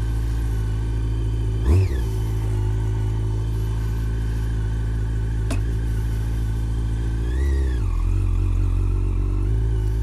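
Yamaha FZ8's inline-four with an Akrapovic slip-on exhaust running at a steady engine speed. There is a short, sharp rev just under two seconds in, a single click in the middle, and a second, gentler rev rise and fall near the end.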